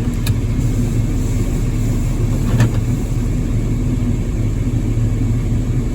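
Diesel engine of farm harvest machinery running steadily, a constant low rumble, with a couple of faint clicks.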